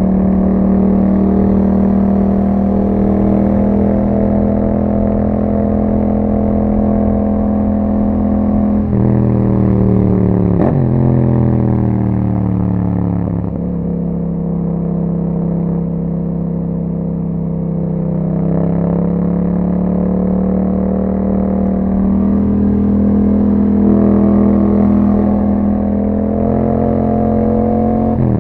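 2021 Yamaha MT-07's 689 cc parallel-twin engine running through an aftermarket Akrapovic exhaust while riding. The engine holds a steady note, drops in pitch about nine seconds in with a quick blip of the throttle as the rider backs off and shifts down, runs lower for a few seconds, then rises again as the bike accelerates and settles at a steady cruise.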